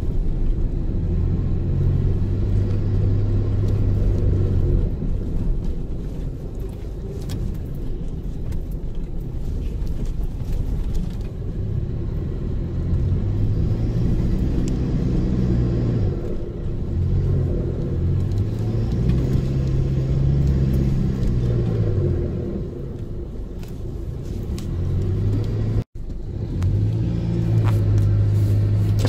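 Four-wheel-drive vehicle's engine heard from inside the cab while driving a soft sand track over dunes, its pitch rising and falling several times as the driver accelerates and eases off. The sound drops out for an instant near the end.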